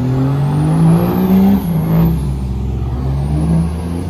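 Truck engine revving hard: the revs climb for about a second and a half, drop back, then rise again briefly near the end, with a thin high whine rising and falling along with them.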